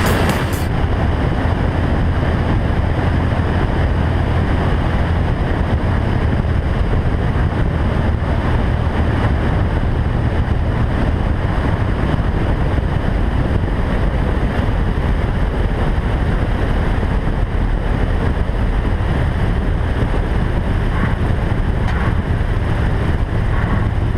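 Cessna 172 XP's six-cylinder engine and propeller running steadily, a constant low drone under a rush of air noise.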